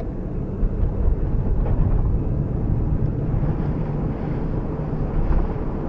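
Fiat Uno Mille EP's small four-cylinder engine running as the car drives along, with a steady low rumble and road noise from the wet street.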